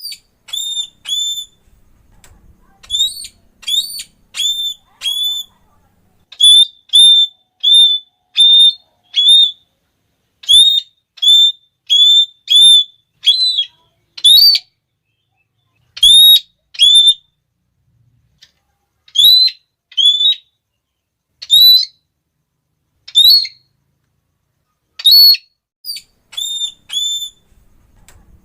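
Red-cheeked parrot calling: short, shrill, high notes repeated in quick runs of two to four, with brief pauses between runs.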